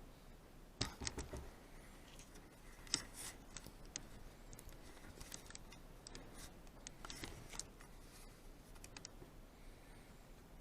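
Faint, scattered clicks and short light scrapes of small parts being handled and tried for fit, with a cluster of clicks about a second in and the sharpest click about three seconds in.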